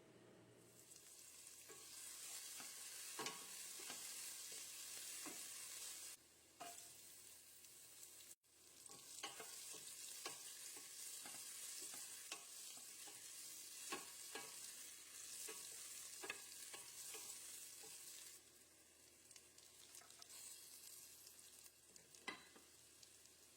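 Food sizzling as it fries in a pan, with a utensil clicking and scraping against the pan as it is stirred. The sizzle dies down for the last few seconds, leaving scattered clicks.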